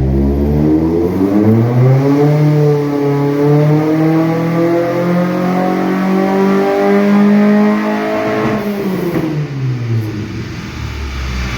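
Mk2 VW Golf's 16-valve four-cylinder on individual throttle bodies revs up quickly at full throttle and holds high revs for about six seconds, then drops away near the end. The owner says the accelerator cable stuck wide open and sent the engine to the limiter until he switched it off.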